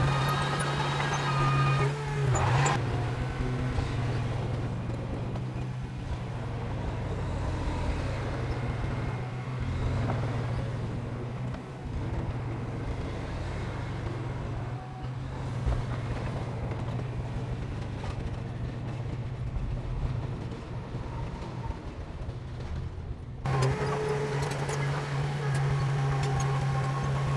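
Diesel engine of heavy construction machinery running steadily with a low drone. The sound changes abruptly about three seconds in, and again about four seconds before the end, where higher engine tones come back in.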